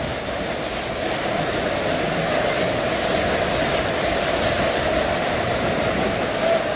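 Steady roar of rushing floodwater, an even noise without breaks.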